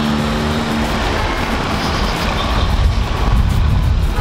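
Motorcycle engine and wind rushing over the camera microphone while riding in traffic, with background music underneath.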